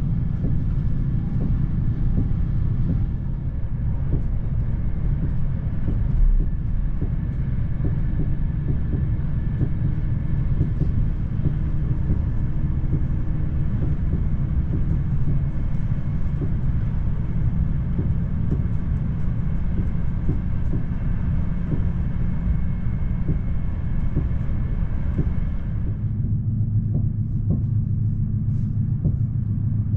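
Electric commuter train running at speed, heard from inside the carriage: a steady low rumble with frequent small clicks and knocks from the wheels on the track. About four seconds before the end the higher hiss falls away and a deeper, heavier hum takes over.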